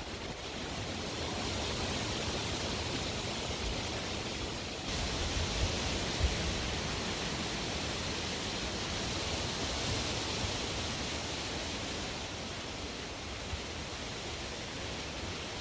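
Strong wind blowing steadily, swelling in gusts about two seconds in and again from about five to eleven seconds, with a couple of brief low thumps around six seconds in.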